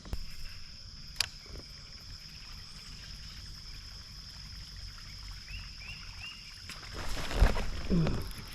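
Water splashing and knocks against a kayak during the last second and a half, with a single sharp click about a second in. A steady high insect buzz runs underneath.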